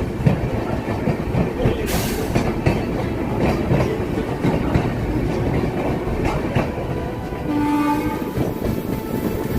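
Tata–Danapur Express running on the rails, a steady rumble with scattered clicks and knocks of the wheels over rail joints. A short horn tone sounds about eight seconds in.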